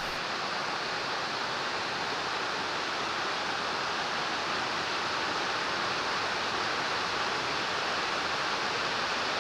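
Waterfall rushing with a steady, even hiss of falling water, the water pouring over the travertine barriers of the Plitvice Lakes.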